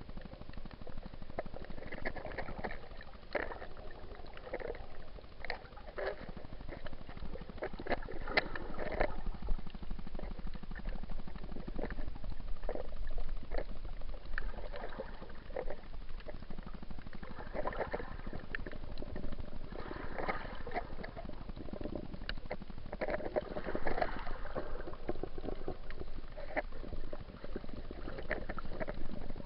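Water sloshing and gurgling around a snorkeller's waterproof action camera, with irregular small knocks and clicks over a low rumble.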